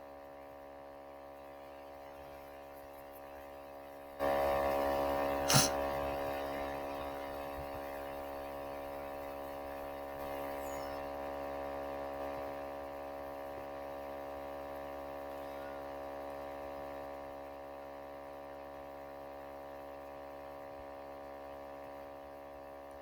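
Steady electrical mains hum with many overtones, a buzz of the kind a loosened audio jack gives. It jumps louder about four seconds in, with a click just after, then eases back down in steps.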